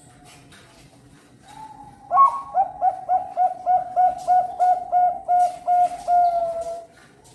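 Zebra dove (perkutut) cooing: a soft note, then a loud opening note followed by a steady run of about a dozen short coos, roughly three a second, ending in a longer drawn-out note.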